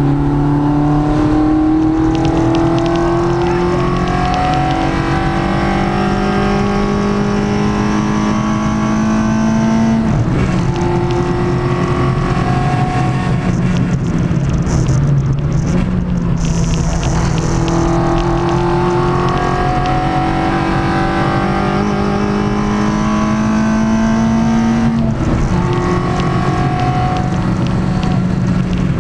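Peugeot 106 track car's four-cylinder engine on Jenvey individual throttle bodies, heard from inside the cabin, running hard under acceleration. The pitch climbs for several seconds at a time, then breaks off and starts climbing again about ten, sixteen and twenty-five seconds in.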